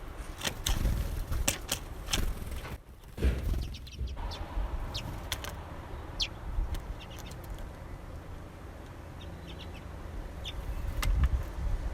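Small birds at a feeder: wings fluttering and many short sharp clicks and chips, over a low rumble.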